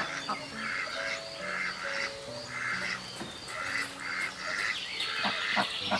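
Harsh animal calls repeating about twice a second, over background music with long held notes; a few sharp knocks near the end.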